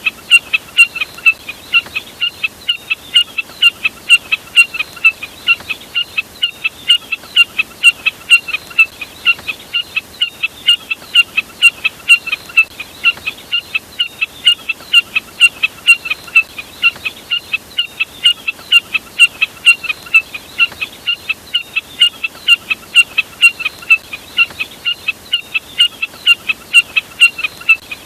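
Jack snipe (burcet) call: short, sharp, high notes repeated about three times a second in an unbroken series.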